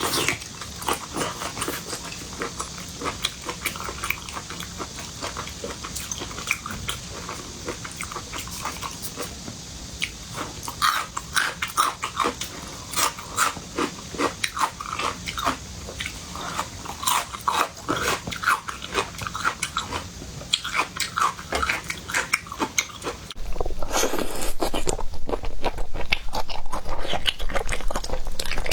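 A person chewing seafood close to the microphone: repeated wet smacks, slurps and crunching bites, growing louder for the last few seconds.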